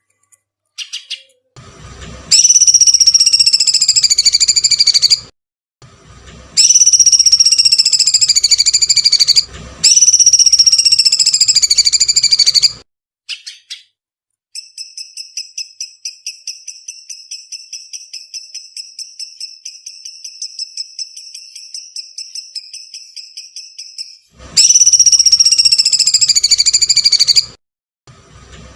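Recorded songbird calls used as a tutoring track for cage birds. Four long, piercing high calls of about three seconds each slide slightly downward. Between them runs a long, quieter trill of rapid repeated notes.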